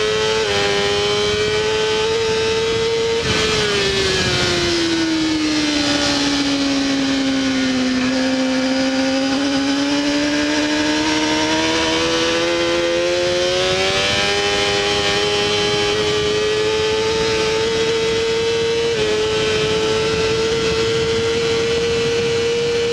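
Honda CBR600RR inline-four engine at racing revs, heard onboard with wind rush. From about three seconds in the revs fall smoothly for several seconds, then climb steadily back, with brief gear-change steps near the start and about fourteen and nineteen seconds in.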